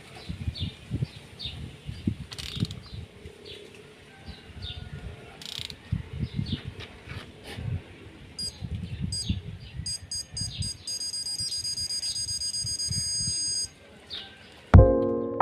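Irregular light mechanical clicks and knocks, with a pattern of high electronic beeps from about eight seconds in until near the end.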